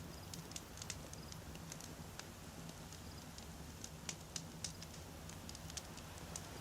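Wood campfire crackling, with frequent small sharp pops at irregular moments over a low steady rumble.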